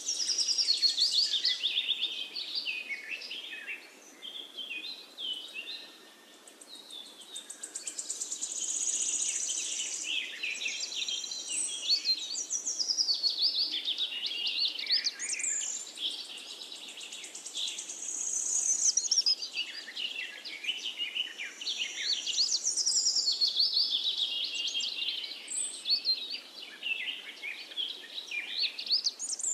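Birds chirping and singing, many quick high calls and trills overlapping, over a faint steady hiss.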